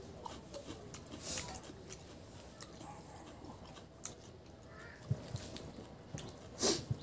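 Close mouth sounds of a person eating rice and pork curry by hand: chewing with scattered wet clicks and smacks, the loudest smack near the end.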